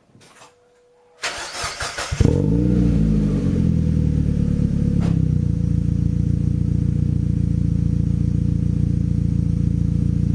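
Turbocharged Mazda MX-5 four-cylinder engine through an adapted Mitsubishi Evo VI 2.75-inch exhaust, cranking on the starter for about a second before catching. The revs flare up and fall back, then it settles into a steady idle.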